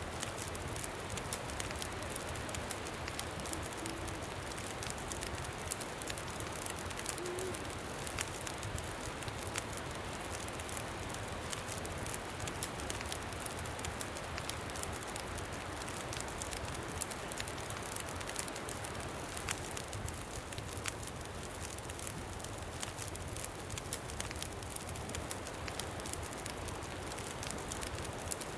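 Campfire crackling, with many small sharp pops scattered throughout, over a steady rushing of wind.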